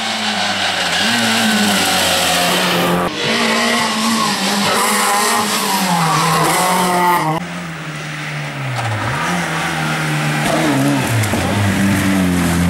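Rally car engine revving hard at full throttle, its pitch rising and falling through gear changes and lifts. It is loudest in the first half and drops back sharply about seven seconds in, then climbs again.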